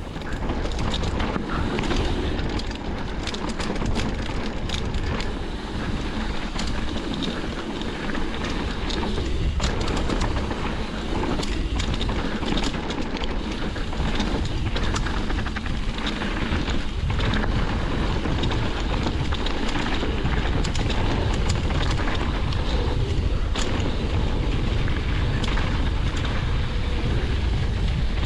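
Mountain bike descending a dirt trail: steady wind rush on the microphone and tyre noise, with frequent short rattles and knocks from the bike over bumps.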